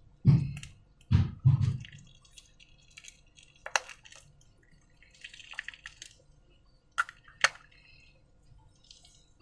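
Clear slime being squished and handled: a few low squelches in the first two seconds, then scattered sharp wet clicks and a short stretch of soft crackling.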